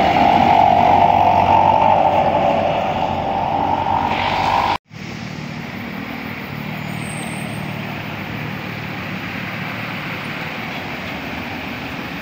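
A heavy vehicle's engine running loud as it passes close, then an abrupt cut to a quieter, steady low engine drone.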